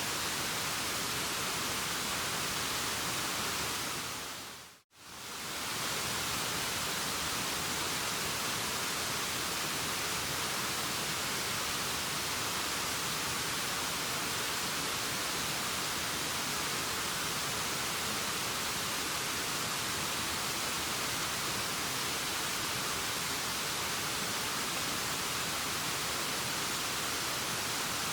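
Waterfall: a steady, even rush of falling water. About five seconds in it fades briefly to silence and fades back.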